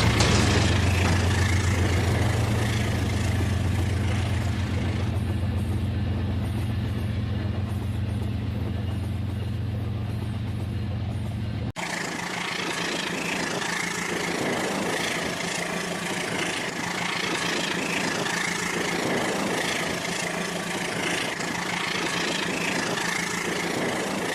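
Battery-powered toy train running on its track: a steady motor whir with wheel and track noise. The sound changes abruptly about twelve seconds in, the low hum dropping away and the higher whir and rattle coming forward.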